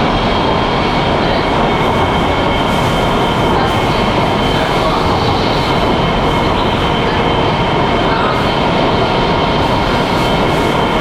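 Wuxi Metro Line 1 subway train running at steady speed through a tunnel: a constant rumble of wheels on rails with a few faint, steady whining tones over it.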